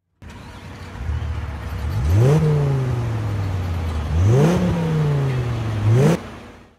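BMW E46 engine idling and revved three times while stationary, each blip rising quickly in pitch and falling back slowly to idle.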